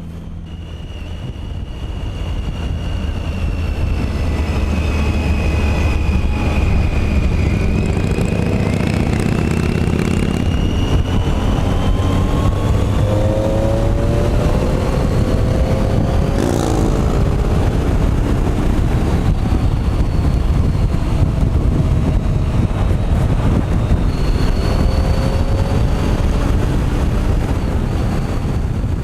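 Motorcycle engine running at road speed under heavy wind rush, with the engine's pitch climbing in a few short rises about halfway through.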